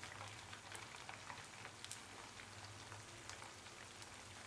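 Poha tikkis shallow-frying in hot oil in a pan: a faint, steady sizzle with many small crackles and pops.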